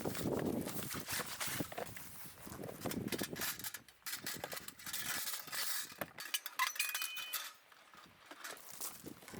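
Irregular clatter of knocks and clinks, like camping gear being handled, with a brief high ringing tone a little past the middle.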